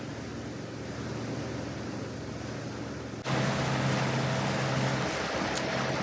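Motor yacht underway: a steady engine hum with wind and water noise, becoming abruptly louder about halfway through.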